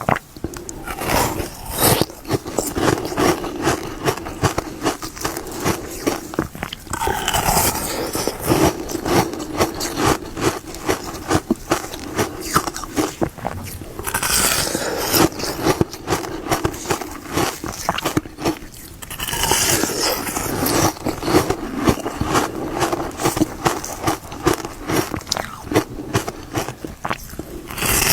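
Close-up crunching of a hard frozen ice pop being bitten and chewed: a steady crackle of ice breaking, with a louder bite every five or six seconds.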